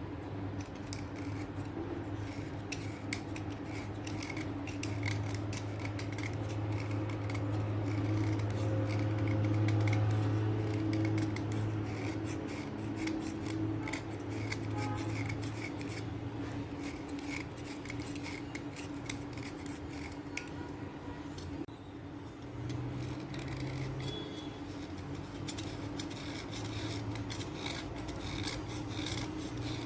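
Dry scraping and cutting of chalk and slate pencils: many quick scratchy strokes, over a steady low hum.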